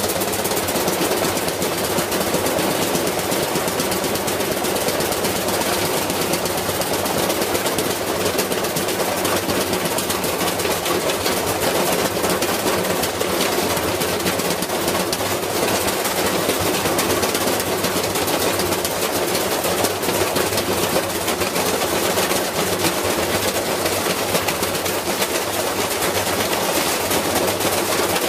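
Washing machine running with a heavy piece of iron inside its drum, the metal hammering against the drum in a rapid, continuous clatter.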